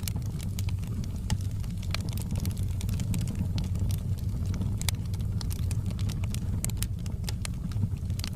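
Fire burning in a fireplace: many sharp, irregular crackles and pops over a steady low rumble.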